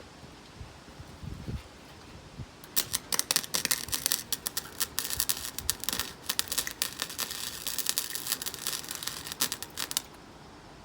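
Wire-feed welder arc crackling and sputtering while a bead is run over a crack in a steel distributor bracket. It starts about three seconds in and cuts off about ten seconds in.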